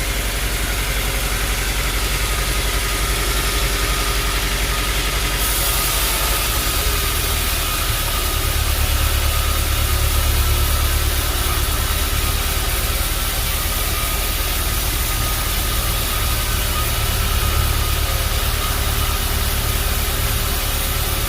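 Sawmill machinery running with a steady engine-like drone and hiss. About five seconds in, the hiss brightens and the low drone grows stronger.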